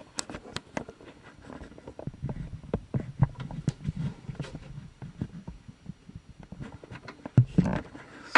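Camera handling noise: scattered clicks, knocks and low thumps as the camera is moved around inside a ceiling cavity.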